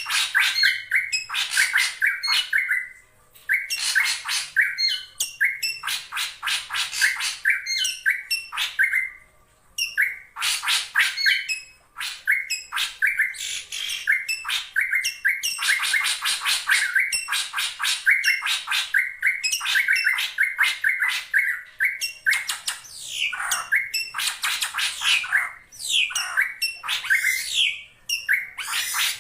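Drongo calling in fast runs of sharp, harsh chattering and squawking notes, broken by short pauses every few seconds: challenge calls aimed at a rival drongo.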